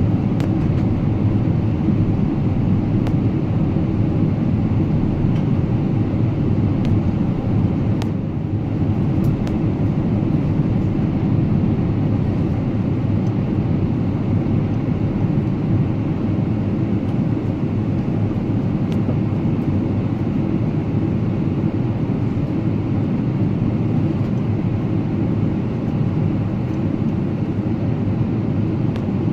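Steady cabin drone of a Boeing 777-300ER in flight: engine and airflow noise as a constant low rumble, with a few faint clicks.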